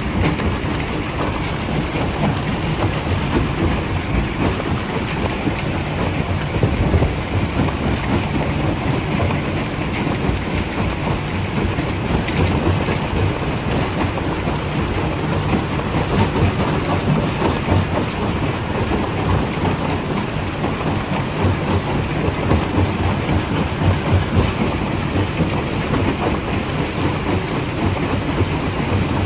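Primary jaw crusher running and crushing rock: a steady heavy rumble with a constant rattle of stone being broken.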